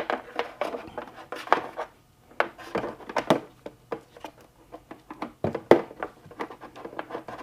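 Irregular light clicks, taps and rubbing from handling a small LED light and fitting it into a freshly drilled 3/4-inch hole in a painted motorcycle trunk panel.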